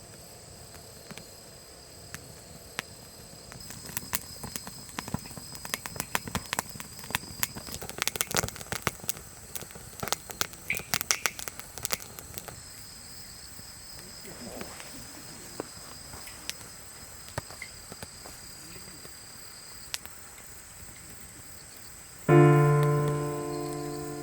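Burning sparks crackling in a dense run of sharp pops for several seconds, then thinning out, over steady high-pitched insect chirring; a piano chord comes in near the end.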